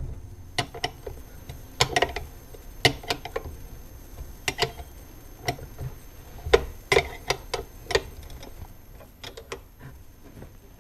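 Irregular sharp metal clicks and taps, about a dozen, as bolts and lock washers are handled and fitted to a horn's mounting bracket.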